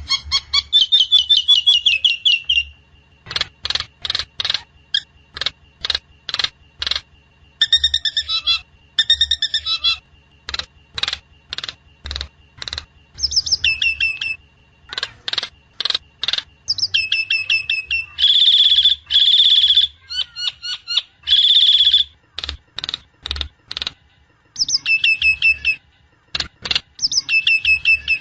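Nias hill myna calling: a long series of short, sharp notes, about one or two a second, broken by bursts of loud whistles that drop in pitch. The loudest calls come in three bunches a little past the middle.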